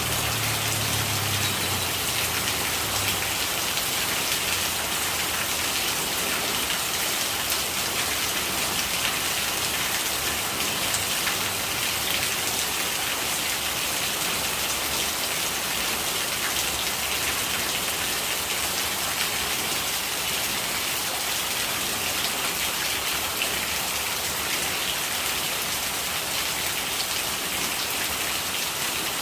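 Steady rain falling on surfaces, with rainwater gurgling, an even hiss of drops at a constant level throughout.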